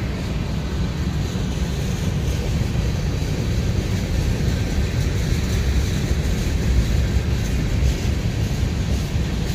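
Covered hopper cars of a slow-moving freight train rolling past on the rails: a steady, low rumble with no pauses.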